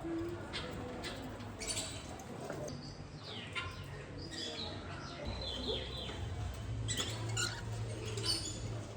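Several birds calling with short, high chirps that sweep up and down in pitch, overlapping irregularly, over a steady low hum.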